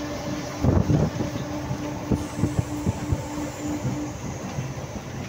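Moving train heard from a carriage window: rumble of wheels on the track and rushing air, with several sharp knocks from the wheels over rail joints. A pulsing hum fades out about four seconds in.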